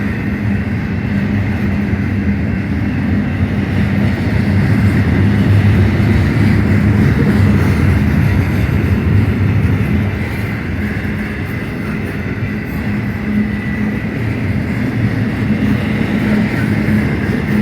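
Union Pacific freight train rolling past with a steady low rumble, with a faint high steady tone above it and no break in the sound.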